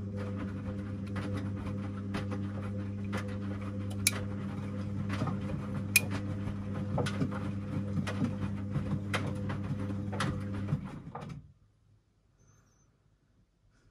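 Washing machine running: a steady electric hum with many irregular clicks and knocks, cutting off suddenly about eleven seconds in.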